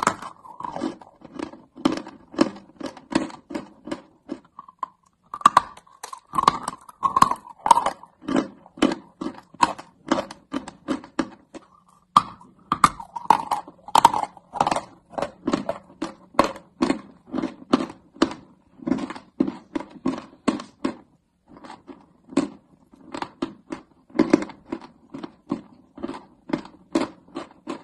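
Close-up chewing of chalk in the mouth: crisp crunches at about three a second, pausing briefly a few times.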